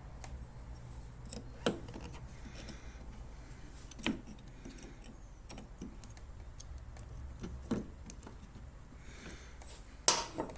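Scattered light clicks and taps of small metal parts and tools being handled during reassembly of a lawn mower's drive, one every second or two, over a low steady hum.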